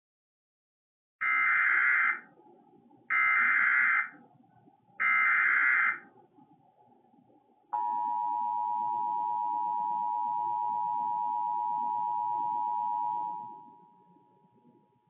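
Emergency Alert System SAME header: three short screeching bursts of digital data tones, each about a second long and about a second apart. They are followed by the steady two-tone EAS attention signal, which holds for about five seconds and then fades out. Together they signal that a severe thunderstorm warning is about to be broadcast.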